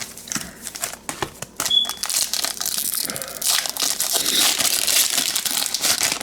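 Crinkling of a trading-card pack wrapper being handled and torn open, sparse at first and then loud and almost continuous from about two seconds in.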